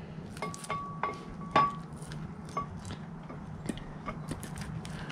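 Metal clinks as a camshaft is slid into a Ford 302 V8 block, its steel lobes and journals tapping against the cam bearings. A quick cluster of ringing clinks comes in the first two seconds, then lighter, sparser taps.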